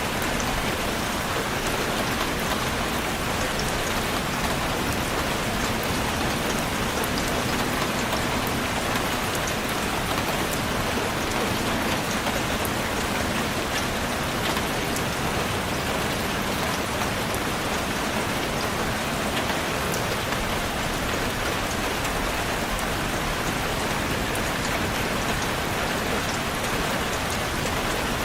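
Steady rainfall, a dense even hiss of drops with many fine individual drop ticks, unchanging in strength.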